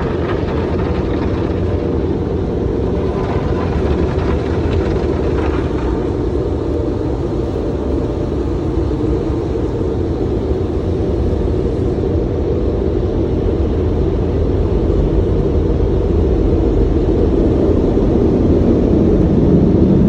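Automatic car wash machinery running: a loud, steady rumbling noise, with a hiss on top for a few seconds near the start.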